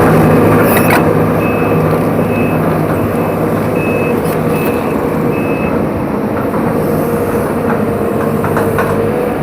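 Hydraulic excavator's diesel engine running steadily under load, with its travel alarm beeping repeatedly through the first half.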